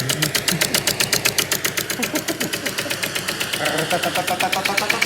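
Small model steam engine running, its exhaust puffing in a rapid, even rhythm.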